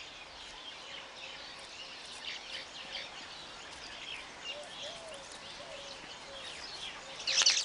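Weaver birds chattering: many short, high chirps over a steady outdoor hiss, with a louder burst of calls near the end.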